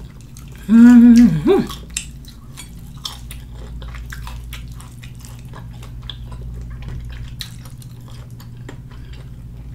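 Mouth chewing fried chicken with wet smacking and small crackling clicks. There is a short hummed "mmm" about a second in.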